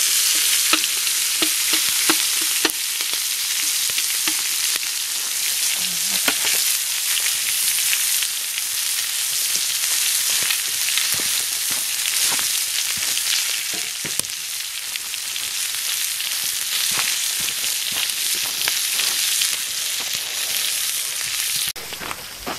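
Steak and asparagus frying: a steady sizzle dotted with crackles and pops, dropping away somewhat just before the end.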